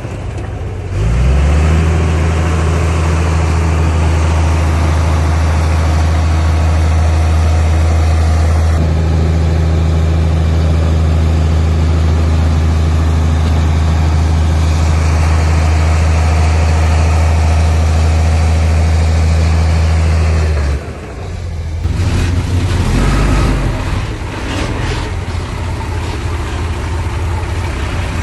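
Heavy diesel engine of earthmoving equipment. About a second in it revs up to a loud, steady high speed and holds there for around twenty seconds, then drops off suddenly and runs unevenly at changing speed.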